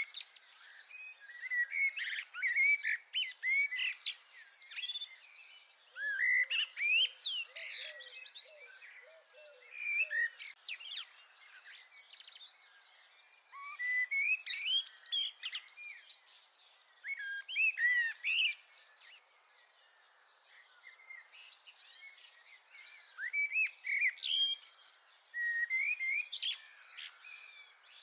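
Small garden songbirds chirping and singing, several birds' short phrases overlapping in bursts with brief lulls between.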